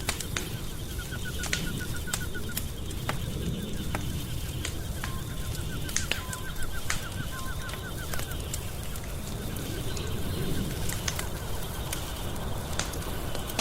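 Wood fire crackling in a fireplace, with scattered sharp pops over a low steady rumble. Behind it, a rapid trilling chirp repeats in short runs.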